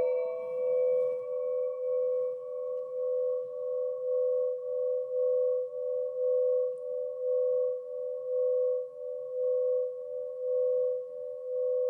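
Singing bowl struck once, then ringing on with a slow, wavering pulse as two close tones beat against each other; its higher overtones die away within the first few seconds while the low hum carries on.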